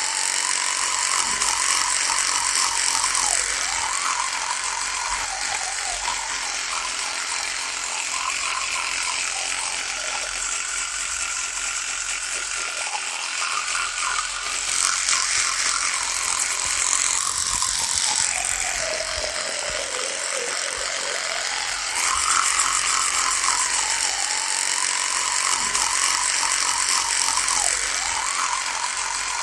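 Electric toothbrush buzzing continuously, its pitch wavering up and down and sagging lowest about two-thirds of the way through before coming back up.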